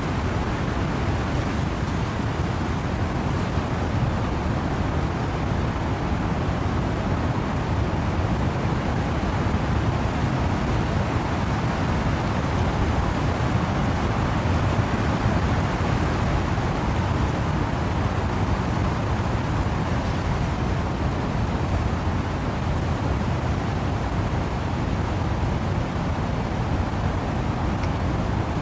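Wind and rain in trees: a steady, even rushing noise, heaviest in the low end, swelling slightly about halfway through.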